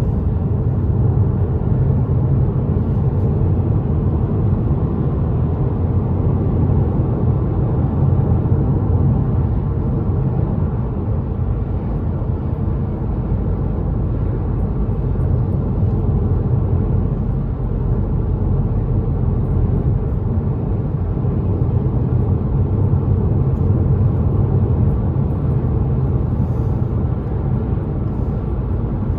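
Steady low rumble of a car driving at highway speed: road and engine noise.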